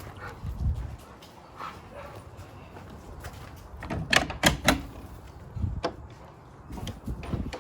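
A dog barking in short bursts, mixed with knocks and rattles. The loudest cluster comes about four seconds in.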